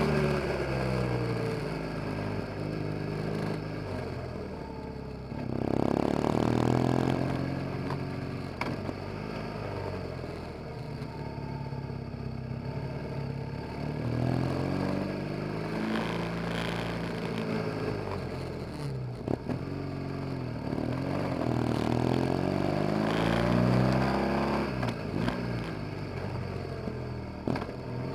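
BMW R 1200 GS boxer-twin engine under way, its pitch rising and falling as it accelerates and eases off, with a strong pull about six seconds in and several swells later on.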